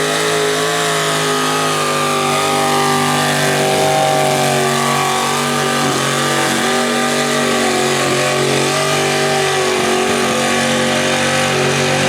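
Competition pulling vehicle's engine held at high revs under full load as it drags the weight sled down the track, its pitch steady with slight wavers.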